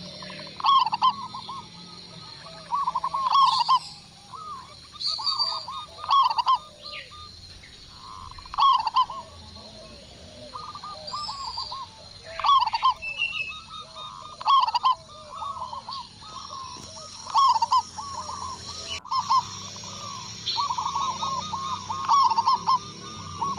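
Zebra doves (local perkutut) cooing: phrase after phrase of short, rolling, repeated coo notes. Higher chirps of other small birds sound faintly in the background.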